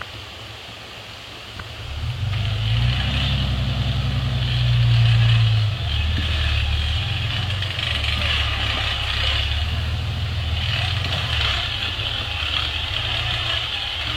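A vehicle engine running with a low steady hum that comes in about two seconds in and holds, loudest around five seconds in.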